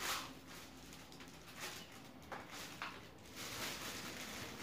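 Cellophane crinkling faintly as it is handled and opened out, with a few sharper crackles.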